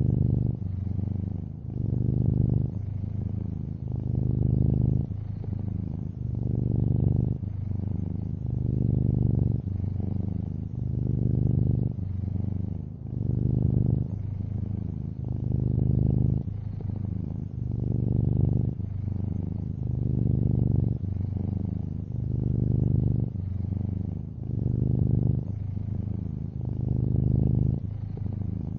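A long-haired orange tabby cat purring steadily and low. The purr swells and eases in a regular rhythm about every two seconds as the cat breathes in and out.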